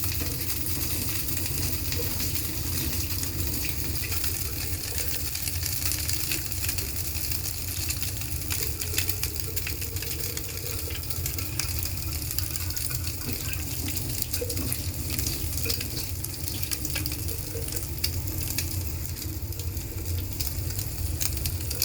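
Egg-dipped bread frying in oil on a dosa tava over a low flame: a steady sizzle with fine crackles and a low hum underneath.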